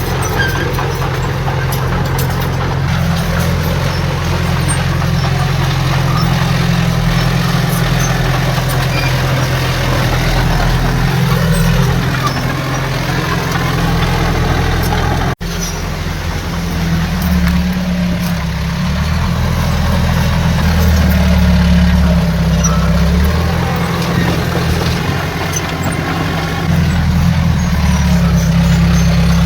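Heavy diesel engine of earthmoving machinery running steadily, its low drone rising and falling a little with load, with a momentary break about halfway through.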